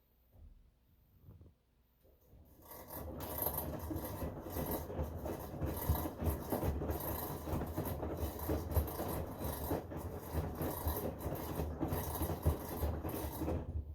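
Bosch Home Professional washing machine making a rough rasping, rubbing noise during a wash, with a rapid uneven pulse. It starts about two and a half seconds in and cuts off suddenly near the end. The owner finds the noise strange, but customer service called it normal.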